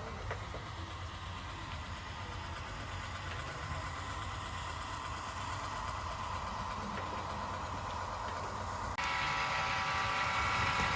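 HO scale model train running on the layout: a steady mechanical rumble of motor and wheels on track. About 9 seconds in, a brighter, steady hum with several held tones comes in suddenly.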